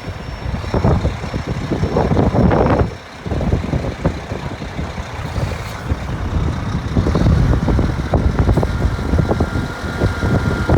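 2009 Scania R400 hook-lift truck's diesel engine running, an uneven low rumble that drops briefly about three seconds in.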